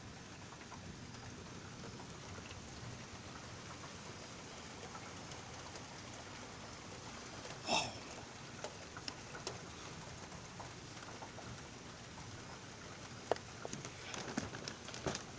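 Steady hard rain falling in a thunderstorm. About halfway through, one short high-pitched sound rises above the rain, and a cluster of sharp drips and taps comes near the end.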